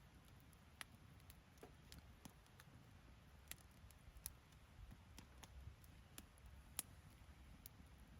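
Wood fire crackling faintly, with irregular sharp pops and snaps scattered through it.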